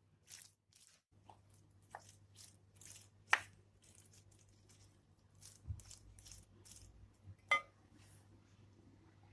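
Quiet kitchen handling sounds: scattered light clicks and taps, with two sharper clinks about three and seven and a half seconds in, over a faint low hum.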